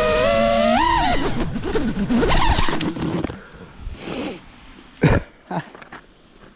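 FPV quadcopter motors whining in several stacked pitches that glide with the throttle, rising briefly about a second in, then falling away and stopping about three seconds in. A sharp knock follows about five seconds in, then a few small clicks.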